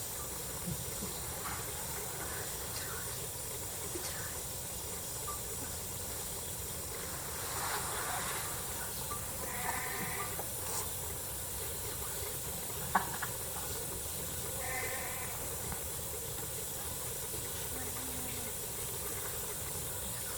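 Steady background hiss with a few bleats from penned livestock, about 8, 10 and 15 seconds in, and a single sharp click about 13 seconds in.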